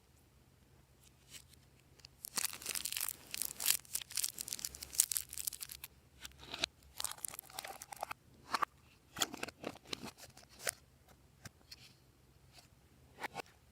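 Glossy slime being stretched and squished by hand: a few seconds of dense crackling and tearing noise, then scattered sticky pops and clicks.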